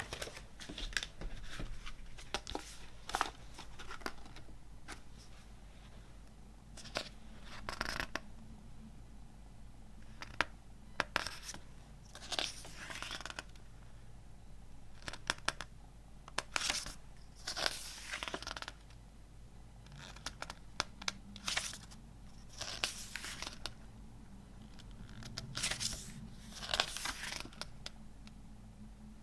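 Hands unpacking a boxed album set: irregular bursts of tearing, rustling and scraping packaging, with sharp clicks and taps between them.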